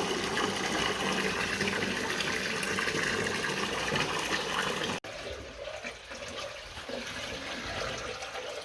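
Warm water running and pouring into the cooling system of a TU6A narrow-gauge diesel locomotive as it is filled. The steady rush cuts off abruptly about five seconds in, leaving a quieter trickle.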